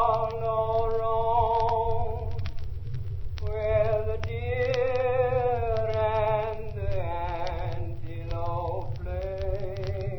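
Wordless voices holding long, wavering notes that slowly rise and fall in pitch, with a short break a few seconds in, over a steady low rumble and scattered crackling clicks.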